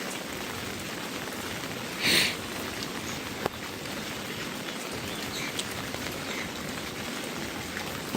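Heavy rain falling steadily, an even hiss of rain on surfaces. About two seconds in there is a brief, louder rush of sound, and a sharp click follows about a second and a half later.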